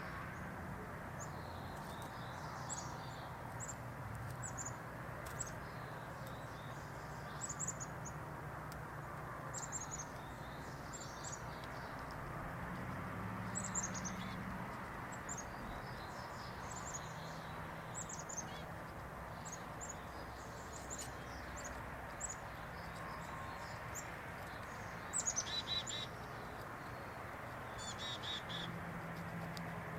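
Small birds chirping in short, high calls, scattered throughout with a louder cluster near the end, over a steady background hiss and low hum.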